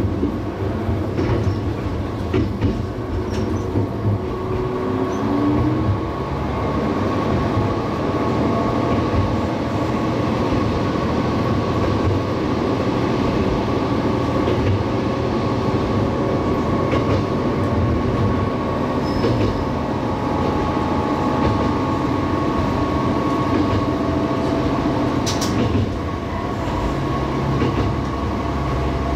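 Diesel railcar running along the track, heard from the cab: a steady engine drone with wheel-on-rail noise. The engine note rises a few seconds in, and sharp clicks come from the rails now and then, one loud one near the end.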